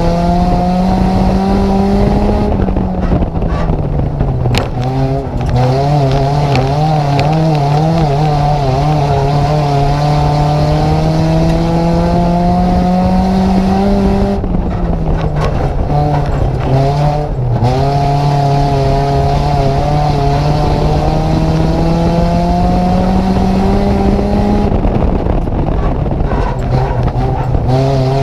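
Nissan Micra race car's engine heard from inside the cabin under hard running, its note climbing slowly through long stretches and dropping sharply four times as the throttle is lifted for the turns.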